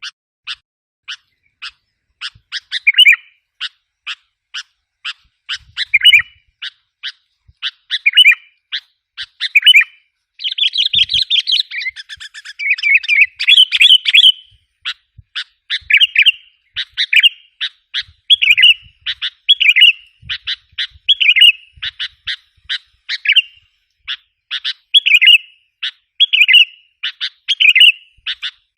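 Sooty-headed bulbul calls from a lure recording. Sharp, short chips come about once or twice a second, with short warbled phrases every couple of seconds, and a dense burst of excited chattering about ten seconds in.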